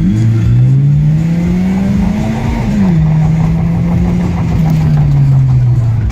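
A four-cylinder car engine pulling hard, its revs climbing steadily for about two and a half seconds. The revs then drop sharply and fall away slowly as the car comes off the throttle.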